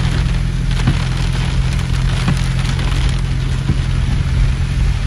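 Heavy rain beating on a car's windshield and body, heard from inside the cabin over the car's steady low hum, with a soft tap about every second and a half.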